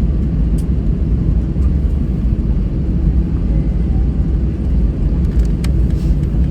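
Steady low rumble of an Airbus A320-214's CFM56 jet engines and airflow, heard inside the passenger cabin, with a faint steady hum and a couple of small clicks.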